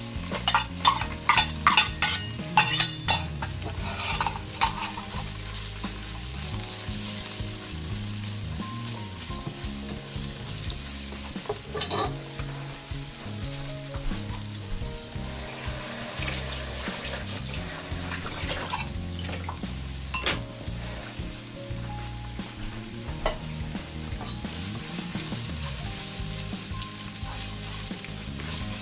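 Sliced onions and minced garlic sizzling in hot olive oil in a nonstick pot, stirred now and then with a silicone spatula. In the first few seconds there is a quick run of clinks and taps as the onions are scraped in from a metal cup with a spoon.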